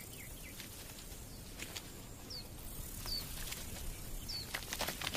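A small bird giving short, high, falling chirps, three times a second or so apart, over faint open-air background noise, with a few soft clicks.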